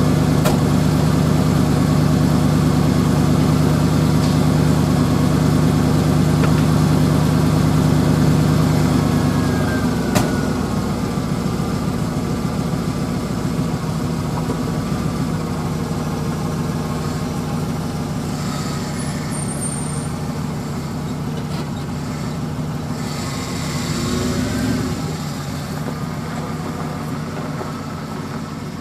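Ford F-150 pickup engine running, a truck that has a chronic fuel-delivery problem. The note is steady at first; about ten seconds in, after a click, it drops lower and rougher, with a brief swell near the end.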